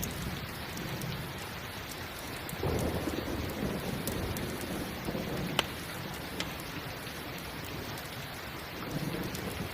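Steady rain with low rolls of thunder swelling twice, and a couple of sharp pops from a crackling campfire.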